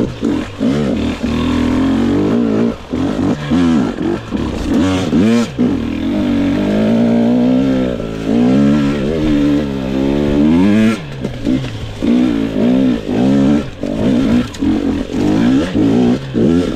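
GasGas EX 250 fuel-injected two-stroke dirt bike engine revving hard and unevenly as it climbs a rocky, rooty hill with little traction. The revs rise and fall again and again, with many short throttle bursts and chops, coming quicker near the end.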